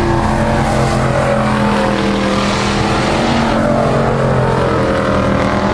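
Several stock-bodied race trucks' engines running together at speed on an oval track, a loud continuous engine drone with pitches shifting slightly as the trucks go around.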